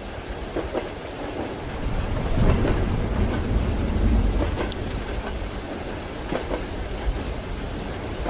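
Steady rain pattering, with a low rumble that swells about two seconds in and dies away by about five seconds.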